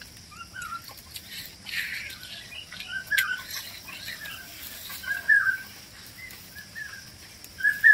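Birds giving short chirps every second or so, with a sharp click about three seconds in.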